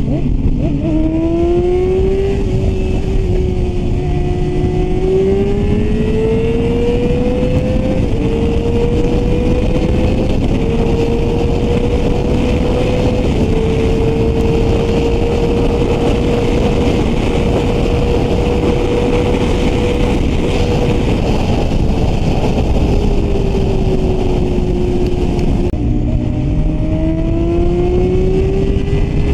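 Yamaha R6 sportbike's inline-four engine accelerating hard, its pitch climbing in steps through several upshifts, then holding steady at speed. About 21 s in it eases off and falls, then climbs again near the end, with heavy wind rush on the helmet microphone.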